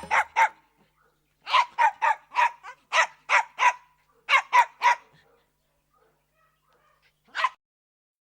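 A dog barking: a quick run of short, sharp barks in several bursts, then a pause and a single last bark near the end.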